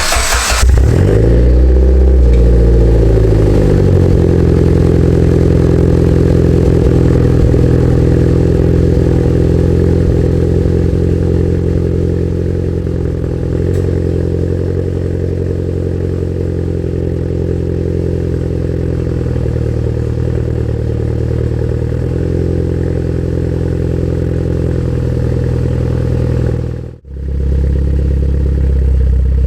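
Mitsubishi Lancer Evolution X GSR's turbocharged 2.0-litre four-cylinder starting through a 3-inch EMS exhaust: a short burst at the start, then the engine flares and settles within a couple of seconds into a loud, deep, steady idle. The sound drops out briefly near the end and comes back.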